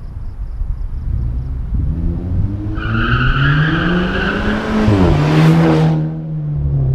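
Volkswagen Golf MK6 GTI's turbocharged 2.0-litre four-cylinder, on a 3-inch catback exhaust, accelerating hard: the engine note climbs for a few seconds, drops sharply about five seconds in, then holds a lower steady note. A loud rushing noise comes for about a second right after the drop.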